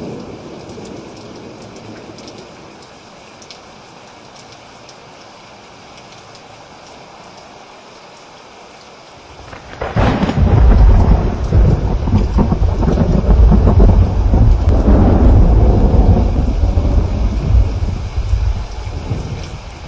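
Steady rain falling, then about halfway through a loud roll of thunder breaks in and rumbles for around nine seconds before fading.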